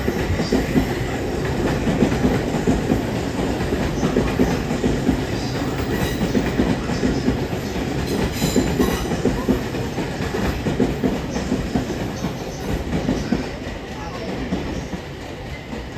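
Odakyu Romancecar GSE (70000 series) train running on the rails, with the clickety-clack of wheels over rail joints.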